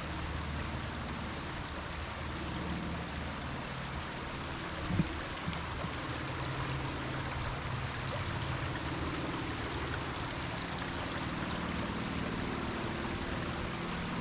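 A river running steadily over a shallow, rocky salmon spawning run, with one short knock about five seconds in.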